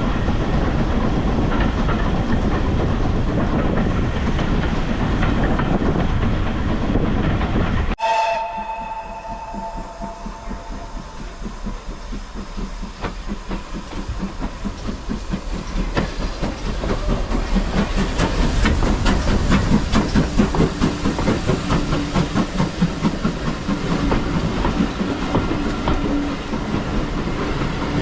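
Heritage steam train on the move: a steady loud running noise, then about eight seconds in the sound changes abruptly and the steam locomotive's whistle gives a short two-note blast. Afterwards the train's rhythmic running sound builds up again.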